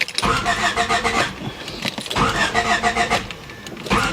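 1993 Honda Civic engine being cranked by the starter in three short bursts of about a second each, turning over rhythmically without firing. It is a crank-no-start: there is no spark.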